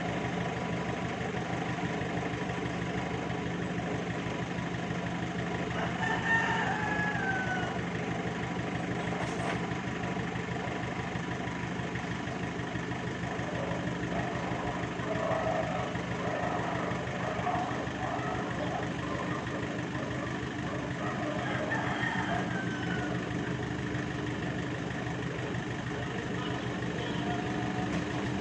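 Vehicle engine idling steadily at an even pace.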